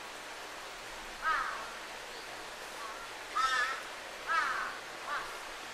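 A bird calling four times in short, harsh, arching calls, over a steady rushing background of the river's flowing water.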